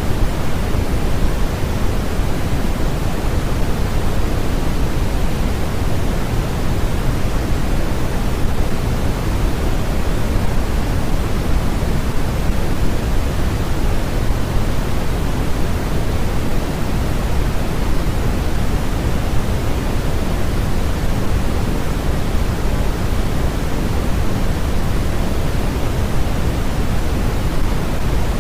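Steady synthetic noise played as a white-noise sleep track: an even, unbroken hiss, fuller in the low end than in the highs.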